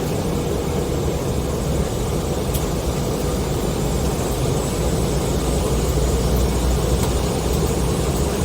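Steady cabin noise of an Embraer E190 jet airliner on final approach: an even drone of engines and rushing air, strongest in the low range.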